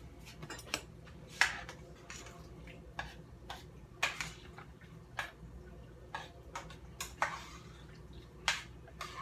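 Kitchen utensils and containers clicking and tapping while a pot of black beans is seasoned: about a dozen sharp, irregularly spaced clicks and knocks, with a few short scraping or shaking sounds between them.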